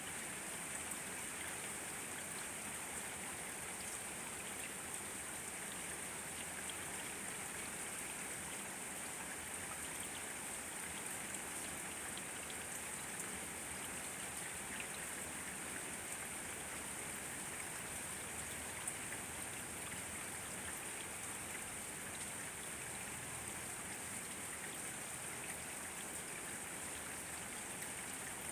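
Steady rainfall, with fine drops pattering on surfaces and a constant hiss.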